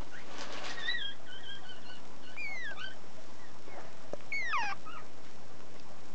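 Month-old chihuahua puppy whimpering in high, thin whines. A wavering, held whine comes about a second in, followed by short falling whines near the middle.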